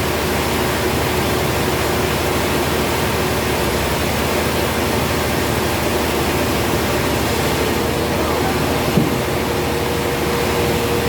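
Sawmill machinery running steadily, a loud even noise with a constant hum; a second, higher hum comes in about two thirds through, and there is one short click near the end.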